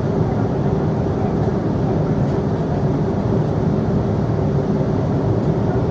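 Steady engine and airflow noise of an airliner heard inside the cabin, with a faint steady hum running through it.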